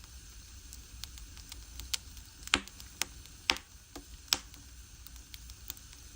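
Firewood burning in an agungi, a traditional Korean firebox, crackling with scattered sharp pops over a low rumble; the loudest pops come near the middle.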